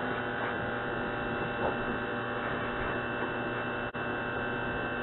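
Pressure washer running with a steady, even hum.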